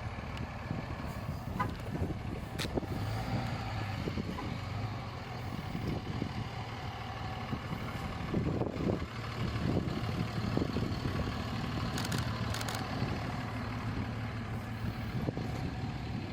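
Low, steady rumble of running vehicles with a faint hum, broken by a few sharp clicks: one about three seconds in and two close together near the twelve-second mark.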